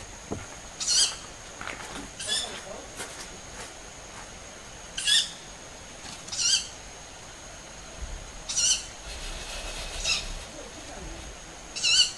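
Short, high, wavering calls of an unidentified night-calling bird, repeated every one to two seconds, about seven in all; the uploader wonders whether it is a young owl.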